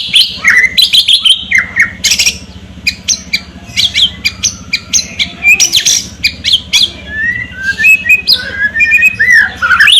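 White-rumped shama (murai batu) singing continuously: a fast, varied run of short whistled notes and glides mixed with sharp, harsh crackling strokes.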